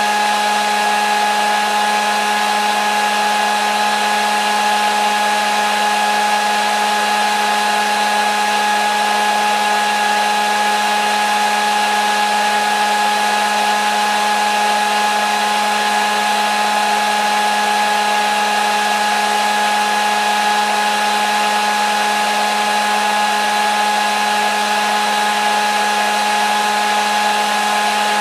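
Hair dryer running steadily: an even rush of air over a constant motor whine that does not change in pitch or level.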